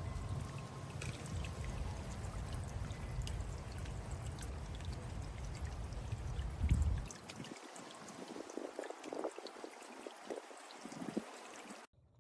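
Water from a small solar bird bath fountain spraying up and splashing back into the shallow basin. A low rumble underlies it for about the first seven seconds, then only lighter splashing and trickling, and the sound cuts off abruptly just before the end.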